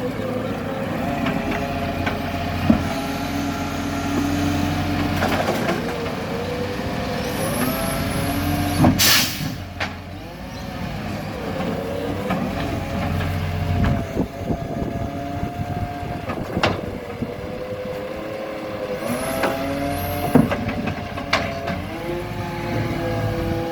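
Garbage truck's diesel engine revving up and down repeatedly, with a short, loud air-brake hiss about nine seconds in and a few sharp clicks and brief high squeals.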